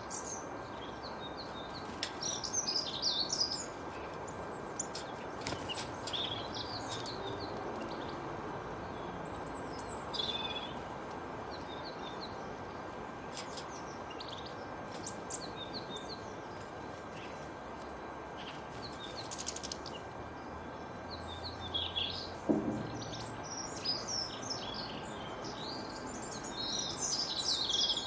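Several birds chirping and singing in short, scattered phrases over a steady background rush of noise. A brief low sound comes about three quarters of the way through.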